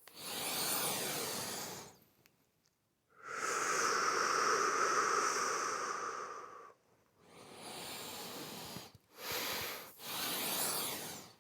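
A man breathes in, then exhales a long 'shhh' hiss through his teeth with his tongue drawn back, the liver sound of the Six Healing Sounds breathing exercise. Shorter breaths follow near the end.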